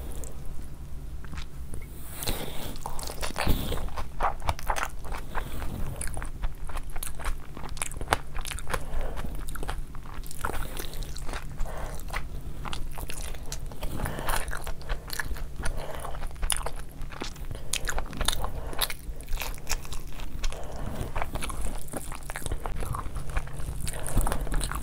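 Close-miked eating of chicken kaleji biryani by hand: chewing and biting, with many small wet mouth clicks and smacks in an irregular, continuous stream.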